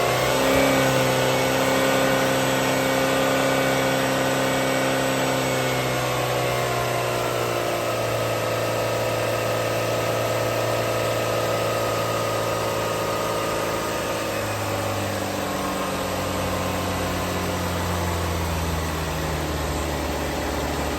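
2016 Chevy Equinox's 2.4-litre four-cylinder engine running at idle in a run test. Its pitch rises briefly at the start, then the idle speed steps down twice as it settles.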